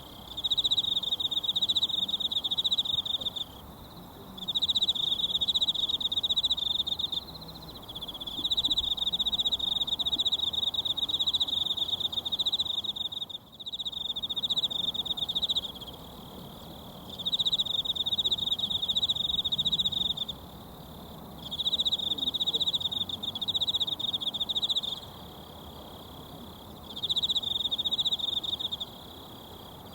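A trilling insect calls in repeated bouts of a few seconds each, with short pauses between, about seven times. Underneath runs the faint steady rush of a mountain stream.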